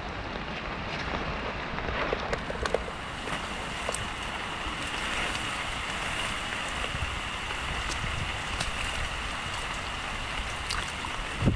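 Steady rain pattering on broad leaves and wet ground, with scattered drop ticks and a faint steady high-pitched hum behind it. A single thump near the end.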